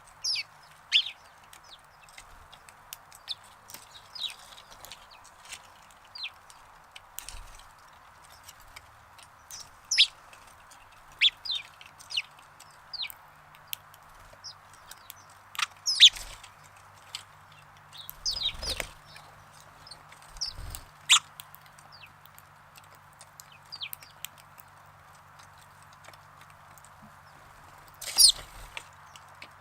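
Sparrows chirping: scattered short, high chirps, a few of them louder, over a steady background hiss.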